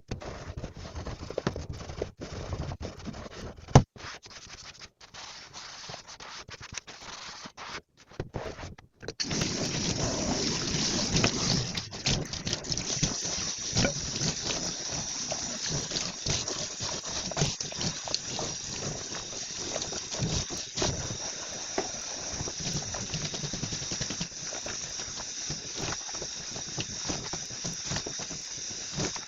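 Dishes being washed by hand at a kitchen sink: scattered clinks and knocks of tableware at first, then from about nine seconds in a tap runs steadily into the sink, with small clinks of dishes through the running water.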